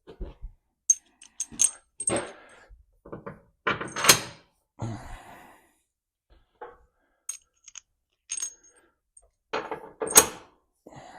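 Loose metal washers and nuts clinking as they are handled and sorted by hand: a string of separate, irregular sharp metallic clinks with a short ring.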